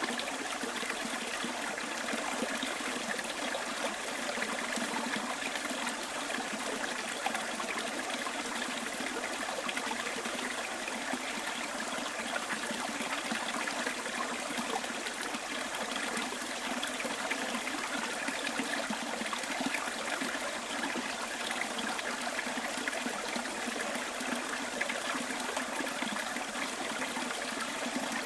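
A bush stream flowing steadily, an even trickling with little low rumble.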